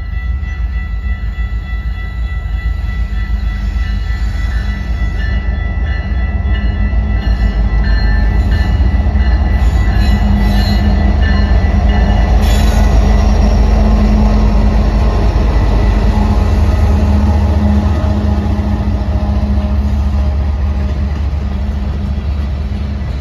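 Diesel-hauled freight train passing: locomotive engines and wheels on rail make a heavy steady rumble that grows louder to a peak about halfway through, then slowly eases as the train goes by.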